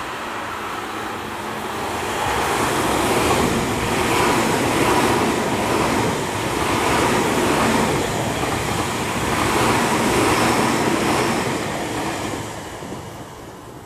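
A Tobu 50090-series electric train passes through the station without stopping. Wheel and rail noise builds about two seconds in, swells and eases every couple of seconds as the cars go by, and dies away near the end.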